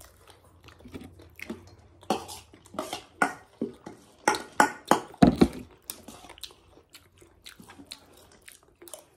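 Wet chewing and mouth clicks of someone eating noodles close to the microphone, busiest in the middle, with one louder low thump about five seconds in.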